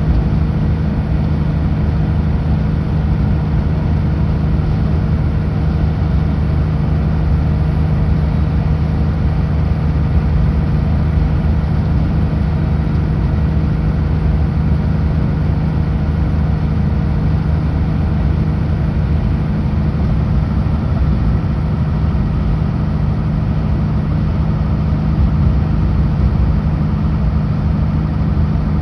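Kenworth W900L semi truck's diesel engine running at a steady, unchanging drone while driving on the highway, with road noise underneath.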